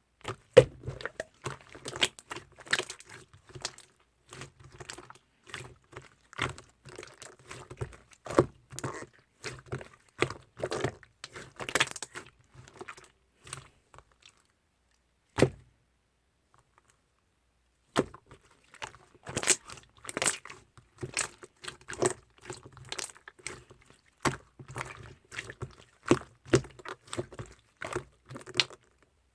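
Firm, bouncy slime being squeezed and poked by hand, making irregular sticky clicks and pops. There is a pause of a few seconds about halfway through, broken by a single pop.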